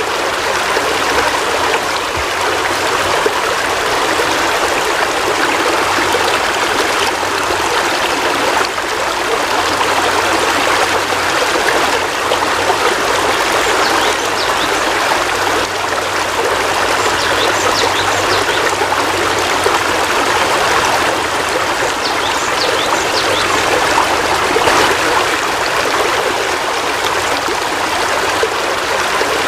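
Heavy rain falling steadily: a dense, even hiss of drops, with occasional sharper drip ticks.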